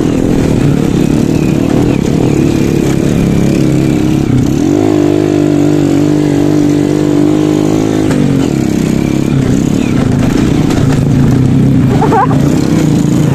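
Honda Supra underbone motorcycle's four-stroke single-cylinder engine running as it is ridden along a dirt trail. The engine note climbs about four seconds in, holds, then drops back around eight seconds.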